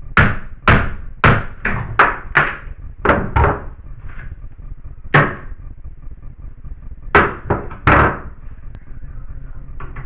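Hammer blows, about a dozen uneven strikes: a quick run of about eight in the first three and a half seconds, one alone about five seconds in, then three more shortly after seven seconds.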